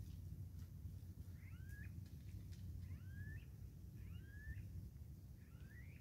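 A bird calling four times, each call a short rising whistled phrase, roughly a second or so apart, faint over a steady low rumble.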